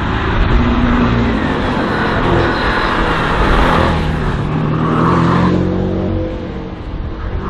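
Race car's engine revving hard on an autoslalom course, its pitch rising and falling repeatedly with throttle and gear changes.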